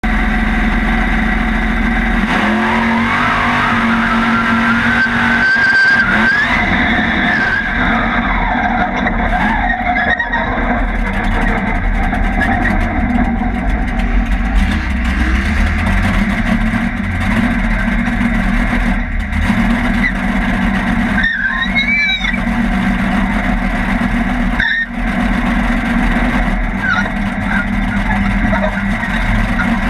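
Race car engine running hard, heard from inside its open, caged cab, rising in pitch over the first few seconds as it accelerates and then dropping back.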